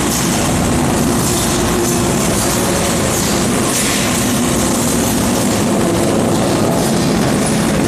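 Rotary drum dryer for sawdust running: steady, loud industrial machinery noise with a low hum and no break.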